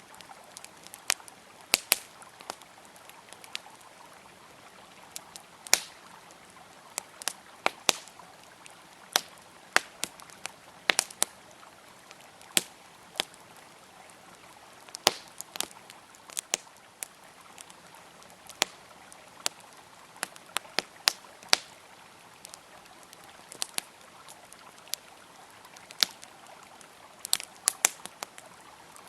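Campfire crackling with sharp irregular pops and snaps, over a steady rush of a flowing river.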